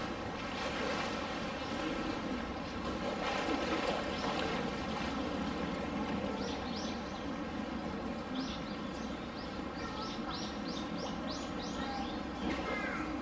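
Steady outdoor background murmur, with a small bird chirping in quick runs of short, high notes about halfway through and again later.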